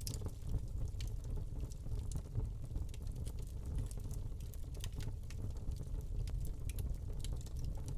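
Wood log fire in a fireplace crackling, with many irregular sharp pops and snaps over a steady low rumble of the flames.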